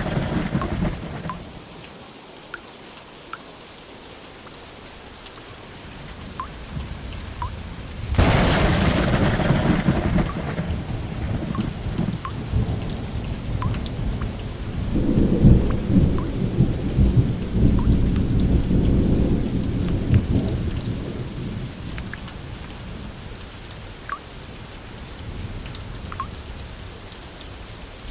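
Steady rain with thunder: a peal dies away at the start, a sharp thunderclap breaks about eight seconds in, and a long low rumble swells from about fifteen to twenty seconds before fading back to the rain.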